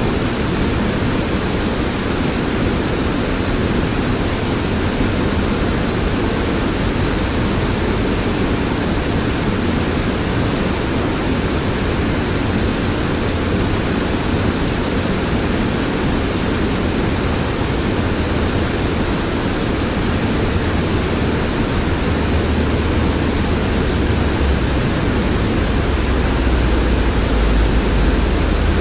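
Waterfall: a loud, steady rush of falling water, with a deeper low rumble building in the last few seconds.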